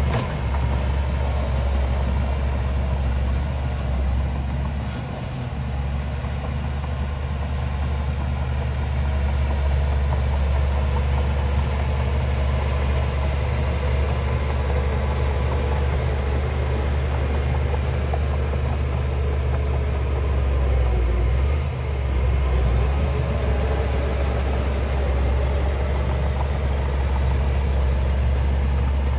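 Heavy diesel engine of earthmoving machinery running steadily, with a deep low drone and small dips in level about five seconds in and again past twenty seconds.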